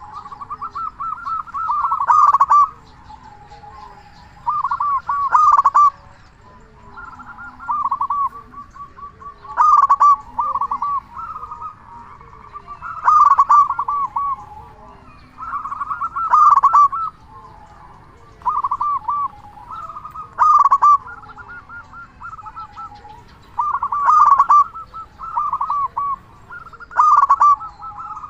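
Zebra dove (perkutut) cooing its loud, rippling song, phrase after phrase about every three to four seconds.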